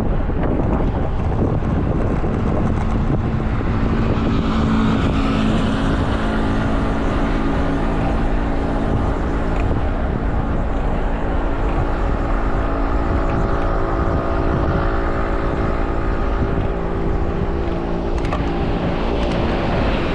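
Wind rushing over an action camera's microphone on a moving bicycle, mixed with the steady hum of motor-vehicle traffic. From about two seconds in, an engine's even drone runs alongside.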